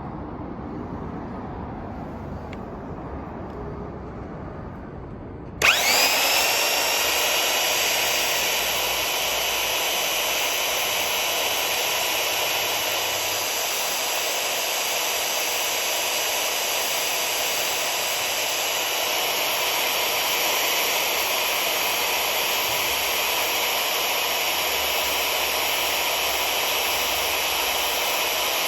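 Ryobi CS-2500 electric chainsaw switched on about five and a half seconds in: its motor spins up with a quick rise in pitch, then runs steadily at an even whine.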